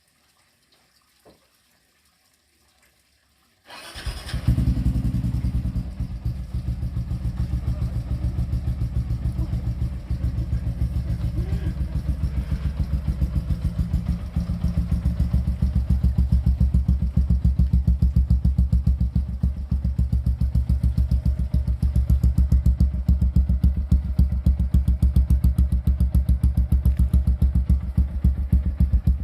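Yamaha Vixion motorcycle engine with an aftermarket Tsukigi SX Performance exhaust, starting up about four seconds in and then idling with a rapid, even exhaust beat.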